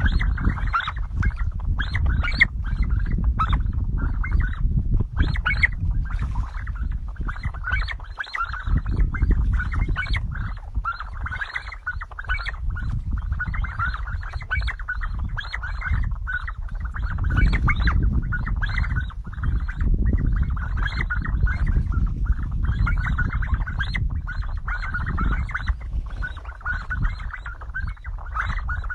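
A flock of sandgrouse calling: short calls repeated many times, often overlapping, over a steady low rumble.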